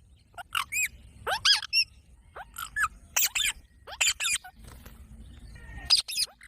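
Parrot calling: a string of short, high, shrill calls that rise and fall in pitch, coming in quick little groups about once a second.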